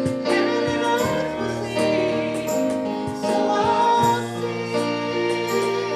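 Congregational worship singing with instruments: sung melody over sustained chords.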